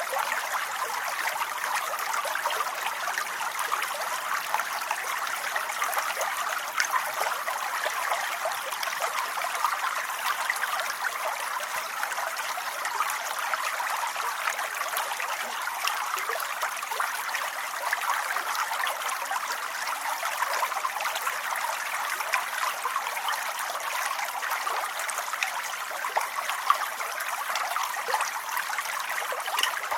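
Steady rainfall: an even hiss made of countless small drop impacts, with no change or pause.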